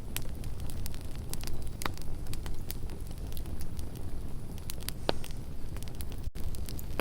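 Campfire burning: a steady low rumble of flames with scattered sharp crackles and pops from the wood, three of them standing out louder than the rest.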